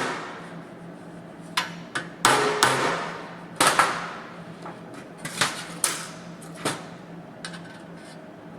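Hammer tapping the sheet steel of a fabricated sill panel: about eight sharp, ringing metallic taps at uneven intervals. The taps dress a side of the panel that sits slightly out of line with the tack welds.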